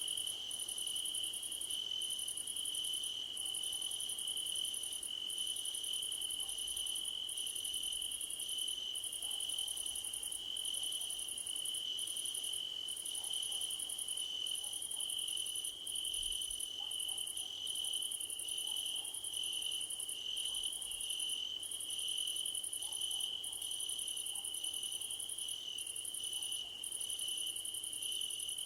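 Chorus of crickets singing: one steady, unbroken high trill under a still higher shrill trill that breaks off briefly about once a second.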